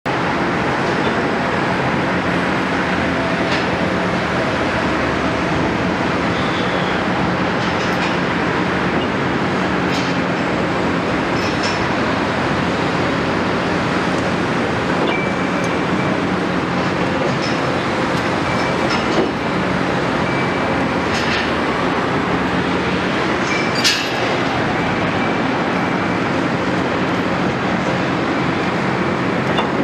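Caterpillar 329E hydraulic excavator at work: its diesel engine runs steadily, with sharp metallic clanks every few seconds and a faint high whine that comes and goes in the second half.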